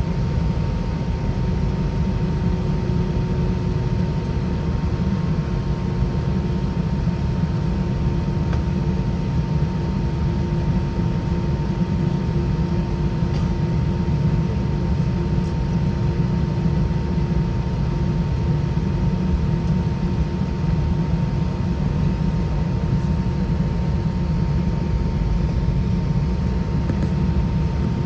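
Steady cabin noise inside an Airbus A320 with IAE V2533 engines, a deep even rumble of engine and airflow with a faint steady hum and a higher whine held throughout.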